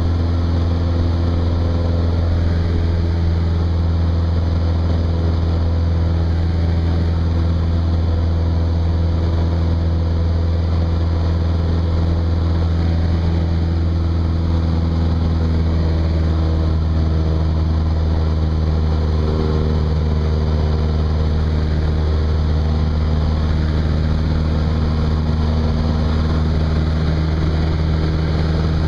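Cessna 172's piston engine and propeller running steadily: a loud, even low drone that holds the same power throughout.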